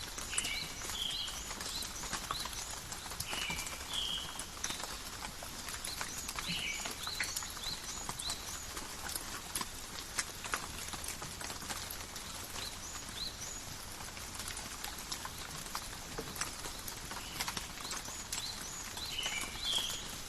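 Calm, steady rain falling in a forest, with many drops ticking on leaves, and a few clusters of short high chirps near the start, in the middle and near the end.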